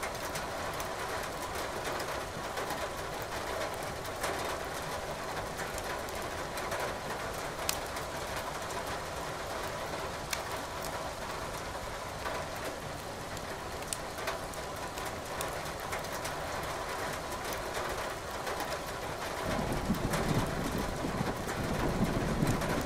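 Steady rain with a wood fire crackling, a few sharp pops standing out. About three seconds before the end a low rumble of thunder comes up.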